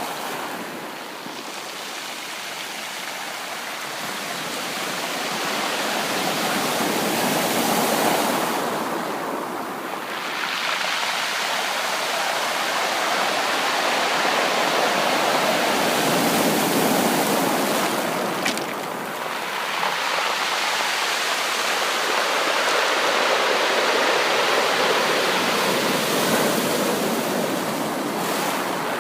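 Ocean surf: waves breaking and washing in as a continuous rushing, swelling and easing about every nine seconds.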